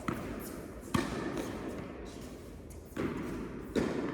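Tennis balls being struck by rackets and bouncing on an indoor court during a rally: four sharp pops spaced roughly a second apart, each ringing on briefly in the hall.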